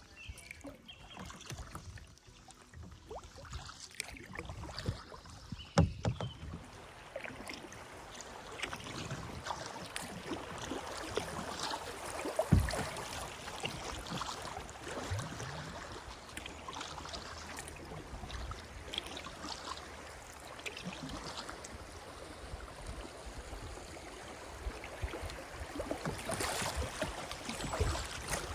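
Kayak paddle strokes splashing and dripping on a river, with two sharp knocks.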